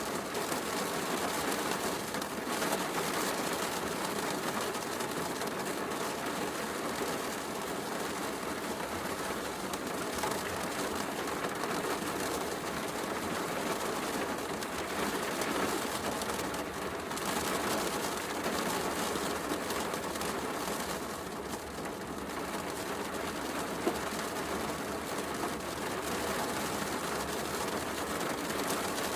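Steady heavy rain mixed with a wood fire crackling in a fireplace, with one sharp pop near the end.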